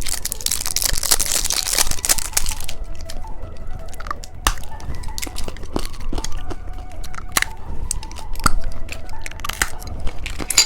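Plastic candy wrapper being crinkled and torn open for the first few seconds, then scattered sharp clicks and cracks of the packaging and hard candy being handled.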